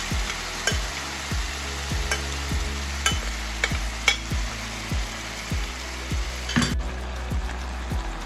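Beef and gravy sizzling in a hot frying pan as the pressure-cooked beef is poured in, with scattered sharp pops and ticks. A steady low beat of background music runs underneath. The sizzle cuts off abruptly about seven seconds in.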